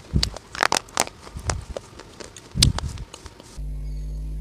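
Close-miked chewing with sharp, irregular crunches and mouth clicks. About three and a half seconds in, it cuts to a steady low electrical hum with a few faint crunches.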